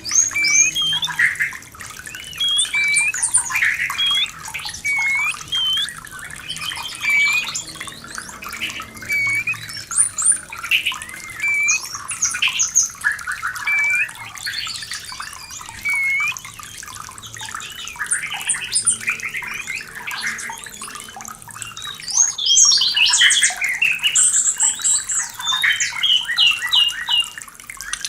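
White-rumped shama in breeding condition singing, a string of varied whistled phrases with repeated short upward-hooked notes and a burst of rapid trills and stuttering notes near the end, over a steady rush of running water.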